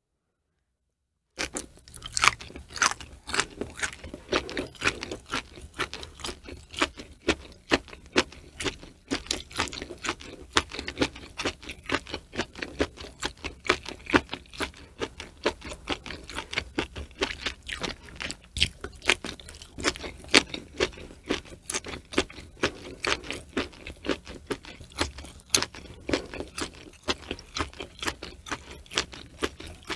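Close-miked chewing of sliced cow udder: crisp crunching and wet mouth clicks. It starts after about a second and a half of silence.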